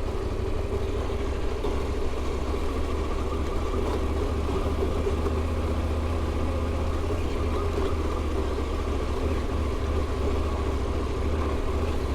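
KTM adventure motorcycle's engine running steadily at low, even speed, heard from the rider's in-helmet microphone.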